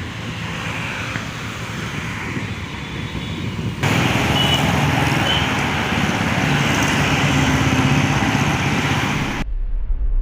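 Steady roar of a departing Boeing 777 freighter's jet engines mixed with road traffic noise, jumping up louder about four seconds in. It cuts off abruptly near the end, leaving a low steady hum.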